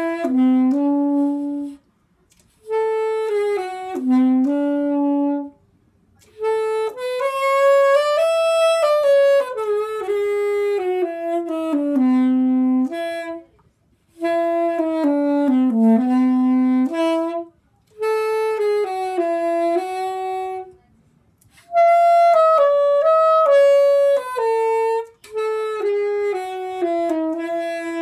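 Solo soprano saxophone playing a slow melody unaccompanied, in phrases of a few seconds each with short breath pauses between them.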